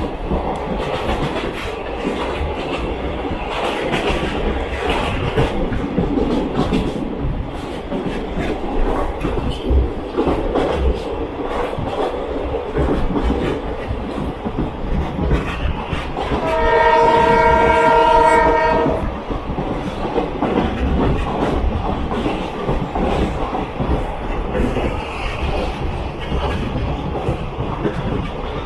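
Train running along the track, a steady rumble with the wheels clattering over rail joints. A little over halfway through, the train's horn sounds one steady blast lasting about two and a half seconds, the loudest sound here.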